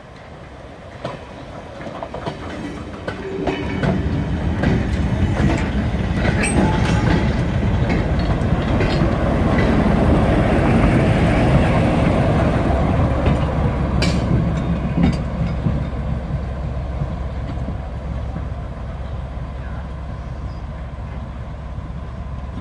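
Short works train of a brake van and wagons rolling over a level crossing, wheels clicking over the rail joints, with a Class 14 diesel-hydraulic locomotive at the rear. The sound builds as the train comes up and is loudest around ten seconds in as the locomotive passes. Its Paxman Ventura diesel engine then drones on as it pulls away.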